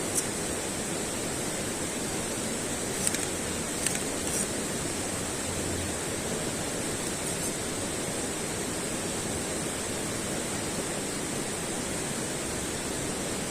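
Steady rushing outdoor noise, with a few sharp clicks about three to four seconds in.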